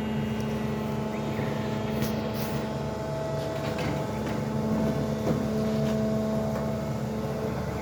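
SANY excavator's diesel engine running steadily, with a few faint knocks in the middle.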